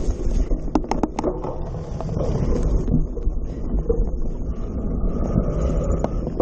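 Wind buffeting the microphone, a steady low rumble, with a quick cluster of sharp knocks about a second in.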